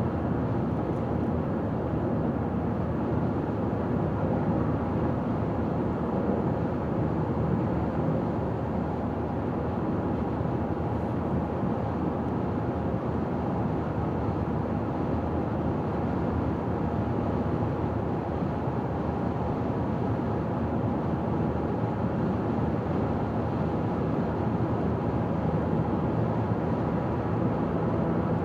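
A car driving steadily on a highway, its tyres and engine making an even rumble with no changes or separate sounds.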